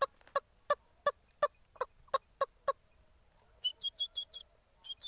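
A man imitating a mother hen calling her chick by voice: about nine short clucks, roughly three a second, then a quick run of five high-pitched chick peeps near the end.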